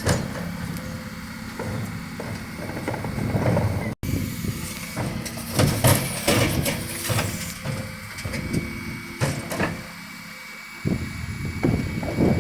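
Dennis Eagle refuse truck running at the kerb while its bin lifters work: a steady engine hum under a thin steady whine, with clusters of knocks and bangs as wheelie bins are lifted and emptied. The sound drops out for an instant about four seconds in.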